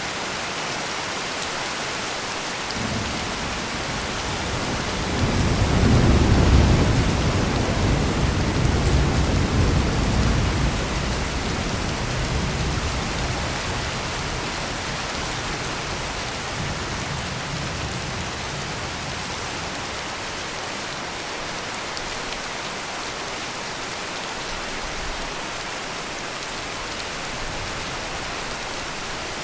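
Heavy rain pouring steadily, with a long roll of thunder that swells a few seconds in and slowly rumbles away.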